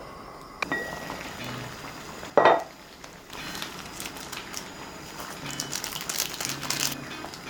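Kitchen handling sounds: a single loud clatter about two and a half seconds in, followed by a dense run of light crackling and clicking.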